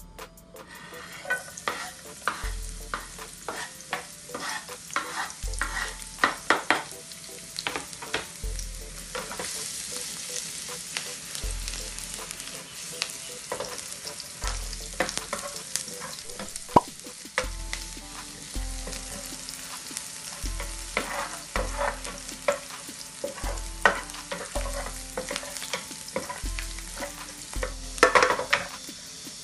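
Egg omelette batter frying in a pan with a steady sizzle, while a utensil clicks and scrapes against the pan. A quick flurry of taps comes near the end.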